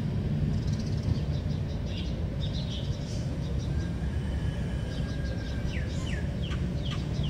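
Birds chirping and calling over a steady low rumble, with a few quick falling whistled notes near the end.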